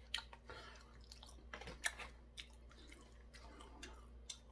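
A person chewing a mouthful of Korean deep-fried battered food (twigim), faint, with scattered soft mouth clicks, over a steady low hum.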